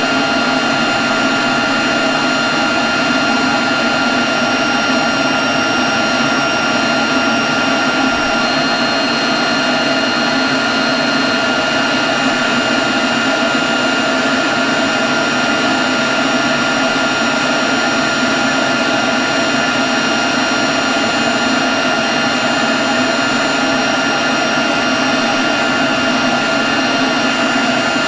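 Leaf blower running steadily at one speed: a constant rush of air with a steady whine over it.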